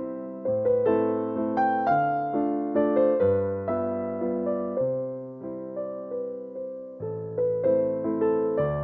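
Background music: a gentle waltz played on piano, with each low bass note carrying under a run of higher notes that sound and fade.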